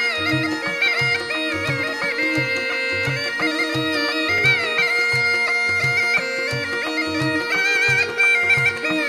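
Murli, the Rajasthani gourd reed pipe, playing an ornamented, bending melody in raga Bhairavi over its own steady drone, with hand-drum beats about two a second.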